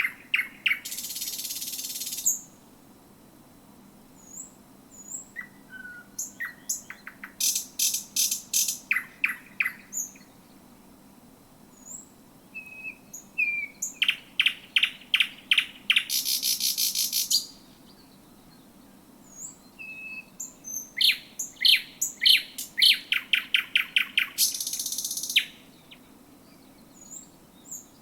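Thrush nightingale singing close up: about four song phrases separated by pauses of a second or two, each made of rapid series of clicking and piping notes, several ending in a harsh rattle lasting about a second.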